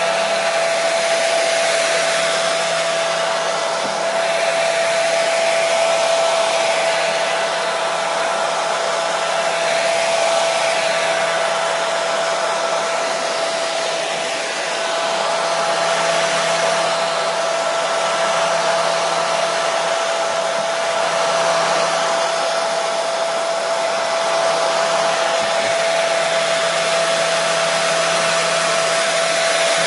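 Hair dryer running continuously: a steady airy rush with a constant motor whine, its loudness swelling and easing only slightly.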